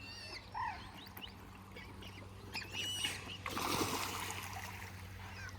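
Water birds (gulls, ducks, coots) making short high calls, with a stretch of splashing water from about halfway through.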